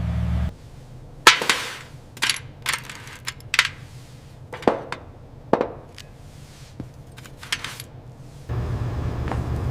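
A series of about a dozen sharp, irregularly spaced knocks or snaps, with a low steady drone that cuts off about half a second in and returns near the end.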